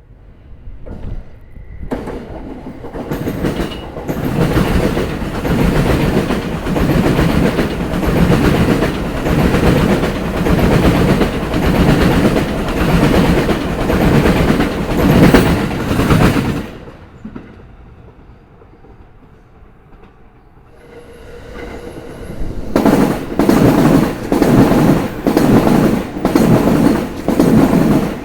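Sōbu Line trains' wheels running over rail joints: a loud, rhythmic clatter that builds up and runs for about fifteen seconds, dies away, then starts again near the end as another train comes through, with heavy, evenly spaced joint beats.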